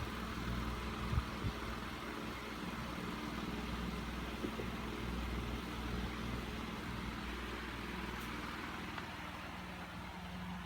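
A steady low mechanical hum, with two short knocks about a second in.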